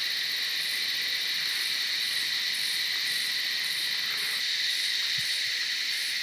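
Steady chorus of insects: a continuous high-pitched chirring with a faint, evenly pulsing shimmer above it.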